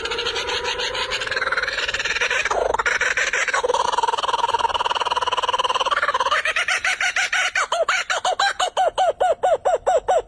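A bird calling: a long held note with a few brief breaks for about six seconds, then a fast run of short rising notes, about five a second.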